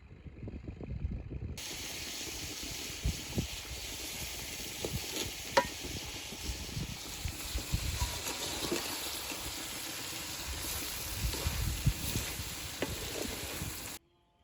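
Pork sizzling as it fries in a pan over a campfire, with occasional knocks and scrapes of a utensil stirring it. The sizzling starts about a second and a half in and cuts off abruptly near the end.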